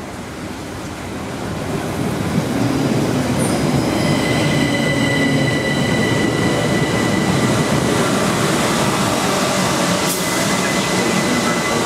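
Passenger train pulling into a station platform. It grows louder over the first couple of seconds, then runs with a steady rumble. From about four seconds in, a high, steady squeal from the train sounds over the rumble.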